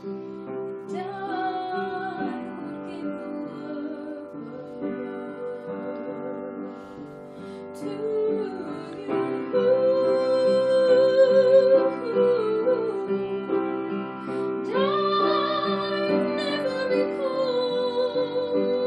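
A woman singing a slow melody with long held notes and vibrato over sustained instrumental chords, growing louder about halfway through.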